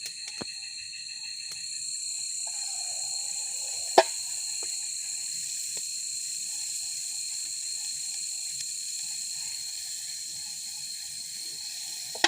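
Steady chorus of night insects such as crickets, a high continuous trilling in several bands, with a single sharp click about four seconds in.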